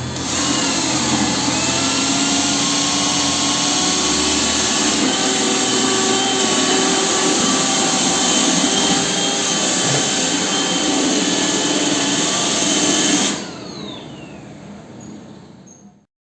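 Roomba robot vacuum running, its motors making a steady whir with a slightly wavering whine. About 13 seconds in it shuts off and winds down with a falling whine, fading away.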